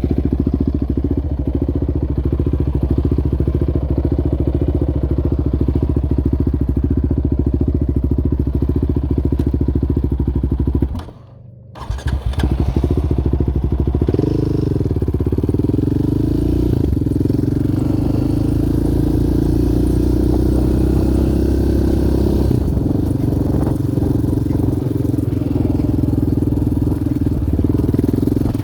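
Yamaha Raptor 700R quad's single-cylinder four-stroke engine running under way, with a brief drop-out about eleven seconds in, then the engine pitch wavering and slowly climbing as it pulls.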